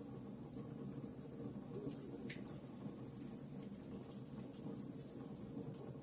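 Wood fire in a fireplace crackling: irregular sharp pops and snaps over a low, steady rush of the flames, with one louder pop about two and a half seconds in.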